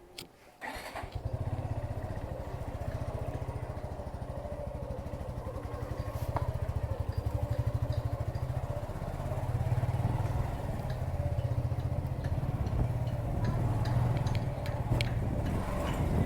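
Motorcycle engine starting about a second in, then running with an even low putter, getting somewhat louder partway through.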